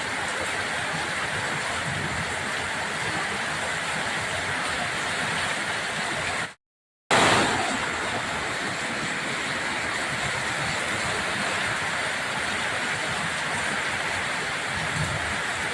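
Steady rushing of water from torrential rain, broken by a dead silence of about half a second roughly six and a half seconds in, after which the rushing resumes.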